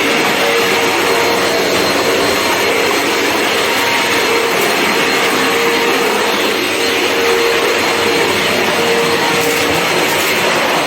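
Vax vacuum cleaner running steadily: a constant loud rush of air with a steady tone underneath.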